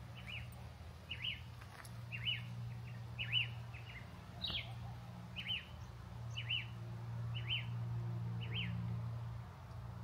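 A bird calling over and over: short, sharp chirps about once a second, each a quick dip-and-rise note.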